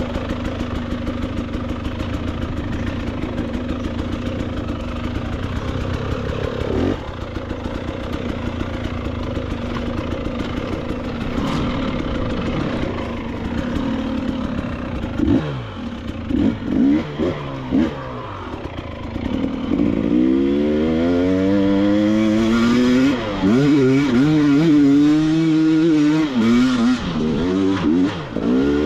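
KTM 300 XCW two-stroke dirt bike engine running: steady and low for about the first half, then revving up and down repeatedly as the throttle is worked, louder over the last several seconds.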